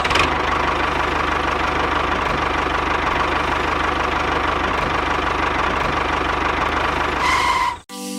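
Small mini-tractor engine idling steadily with a fast, even knocking beat; it cuts off suddenly near the end.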